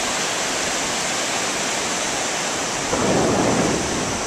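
Ocean surf washing on the beach, a steady rushing with a louder surge about three seconds in, mixed with wind on the microphone.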